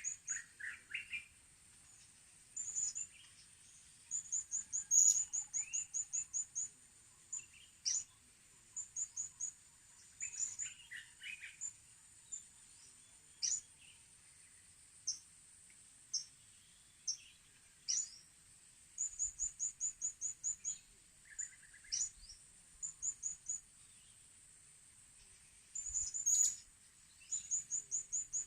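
Small birds calling: very high, thin chirps, often in quick runs of six to eight notes, mixed with sharp downward-sliding notes, over a faint steady high hiss.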